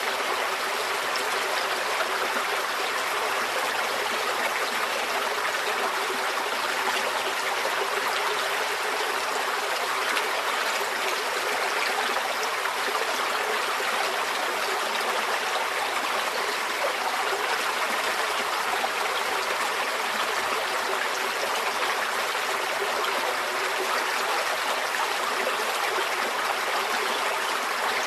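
Shallow stream flowing and trickling over stones, a steady, even rush of water.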